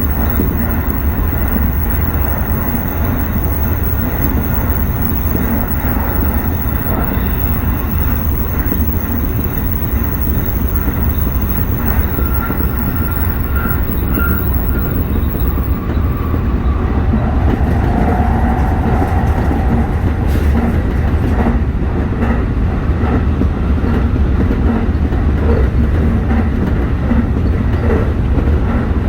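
Tsukuba Express electric train running at speed, heard from inside the car: a steady rumble of wheels on rail, with a faint whine about halfway through.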